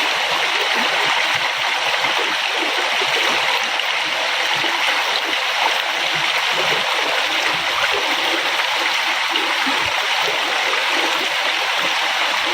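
River water flowing and splashing over rocks in a steady rush, with small gurgles in the lower range.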